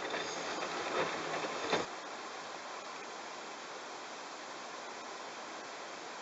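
Bosch washing machine drum turning a load of wet towels, with a rhythmic clattering that stops suddenly about two seconds in. A steady, even rushing noise carries on after the drum stops.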